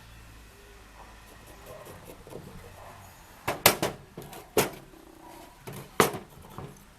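Several sharp knocks and clatters from wooden pieces being handled: a quick cluster about three and a half seconds in, another knock a second later, and the loudest single knock about six seconds in.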